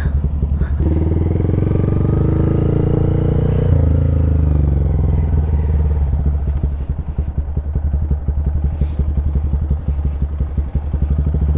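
Honda Grom's single-cylinder engine, fitted with an aftermarket exhaust, running under light throttle at walking pace. It pulls harder from about a second in, then eases back to a lower, pulsing beat after about six seconds.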